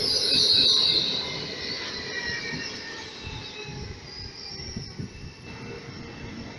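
PKP Intercity ED250 Pendolino electric train rolling slowly alongside the platform as it comes in to stop. A high wheel and brake squeal is loudest in the first second, then thinner squealing tones and a low running rumble fade away.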